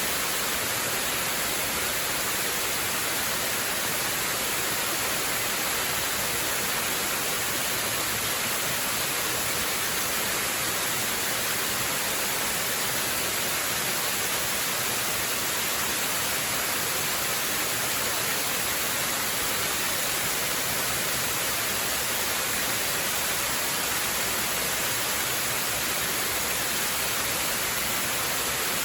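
Waterfall rushing in a steady, unbroken hiss-heavy roar of falling water, with no change in level.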